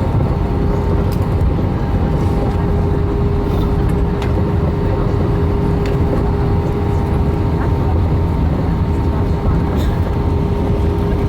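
Steady engine and airflow noise inside an Airbus A318 airliner cabin: a loud low rumble with a constant hum above it.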